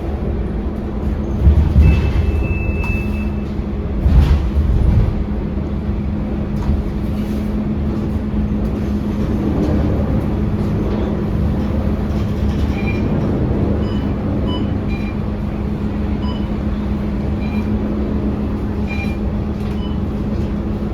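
Scania K230UB city bus running, with a steady engine drone and low road rumble. There are two louder low rumbles a few seconds in.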